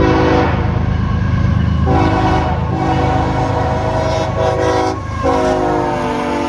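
Locomotive air horn sounding a series of chord blasts over the low rumble of a passing train. The last long blast drops slightly in pitch as the locomotive goes by.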